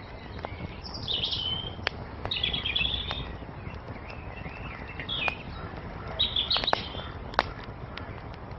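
Small songbirds chirping in short high twittering phrases over a steady low rush, with sharp pops and crackles from a burning wood fire scattered through.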